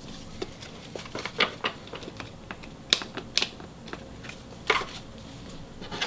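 Irregular light clicks and taps of trading cards being handled and set down on a table, a dozen or so in a few seconds.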